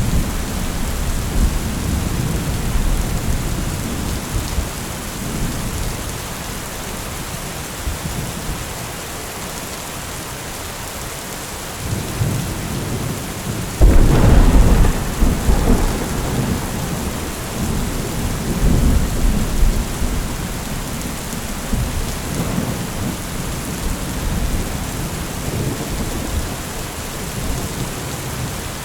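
Thunderstorm: steady rain with thunder rumbling. A rumble dies away over the first several seconds, and about halfway through a sharp, loud crack of thunder rolls on into a long rumble before the rain carries on.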